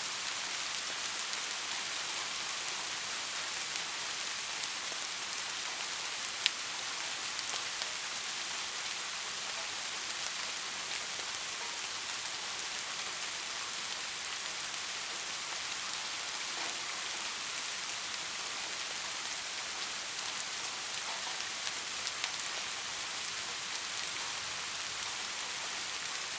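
Steady rain falling, an even hiss with scattered individual drops ticking on a surface and one sharper, louder drop about six and a half seconds in.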